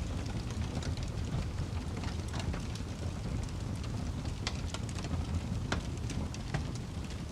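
Crackling fire: a steady low rumble of burning with irregular sharp pops and snaps scattered through it.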